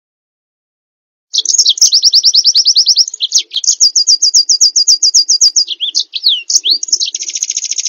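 Small songbird singing fast trills of repeated sweeping notes, about ten a second, starting after about a second of silence. It breaks into a few separate swooping notes and then a faster, buzzier trill near the end.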